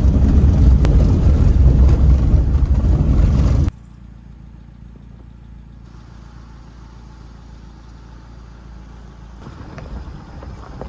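Vehicle on the move: a loud low rumble of road and wind noise that cuts off abruptly after about three and a half seconds. A much quieter, steady low engine hum follows.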